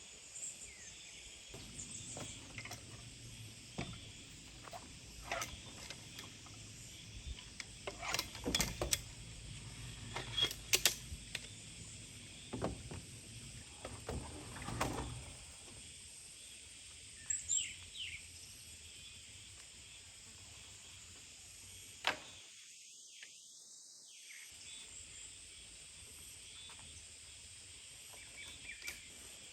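Quiet outdoor ambience with scattered knocks and clicks through the first half, and a few short bird chirps about two-thirds of the way through.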